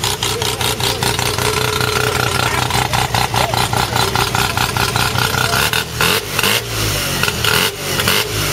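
Mazda rotary (Wankel) engine in a Datsun 1200 idling with a choppy, rapidly pulsing exhaust note, given a short rev about six seconds in before settling back to idle.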